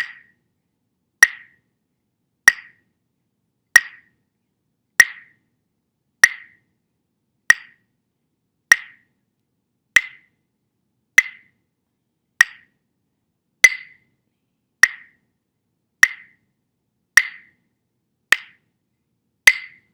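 A steady slow beat of sharp woodblock-like metronome clicks, about one every 1.25 seconds (roughly 48 a minute), keeping time for the slow chant.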